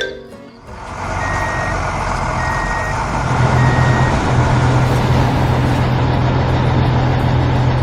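Truck sound effect: a steady low engine hum that swells in during the first second, with three reversing beeps about a second apart in the first half.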